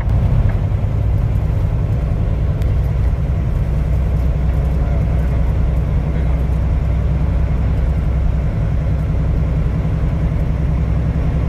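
Steady low drone of a semi-truck running at highway speed, heard from inside the cab: engine and road noise.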